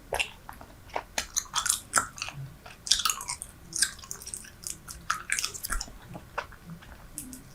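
Close-up chewing of Super Bubble bubble gum: wet smacks and clicks of mouth and teeth working a wad of gum that has gone hard, in an irregular run of sharp crackly sounds.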